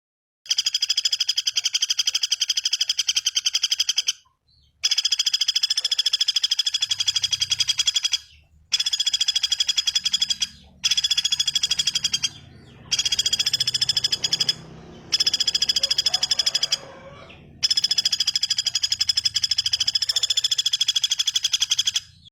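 A bird's rapid, buzzy trill, given in seven loud bouts of about two to four seconds each with short breaks between them.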